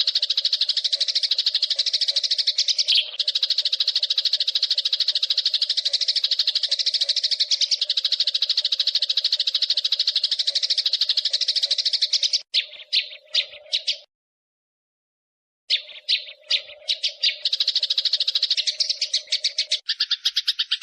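Eurasian tree sparrows chattering in a fast, unbroken run of chirps, the agitated calling of fighting sparrows, over a faint steady hum. The chatter cuts out for about a second and a half midway, then resumes. Just before the end it gives way to a different, lower call.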